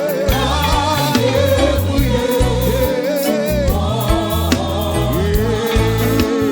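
Gospel praise music with a lead singer and a choir singing over a live band with bass and drums.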